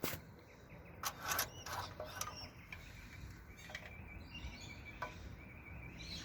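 Faint bird chirping, with a few light clicks and taps in the first couple of seconds.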